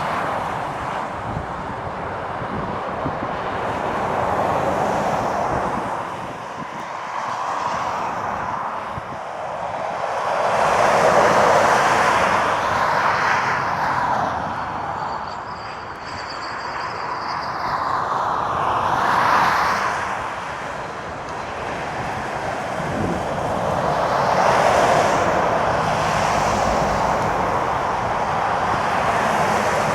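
Trucks and traffic passing on a rain-soaked dual carriageway, tyres hissing on the wet road, swelling and fading several times as vehicles go by, with wind rumbling on the microphone.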